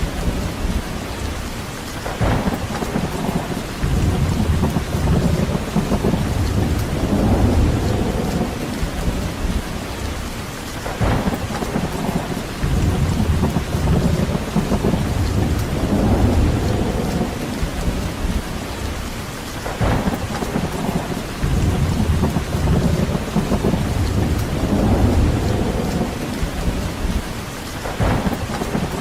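Steady rain falling, with low rumbling swells that rise and fall every few seconds and a brief crackle about every nine seconds.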